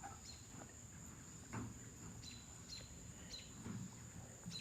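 Faint outdoor ambience: a steady high-pitched insect drone with short faint chirps every second or so.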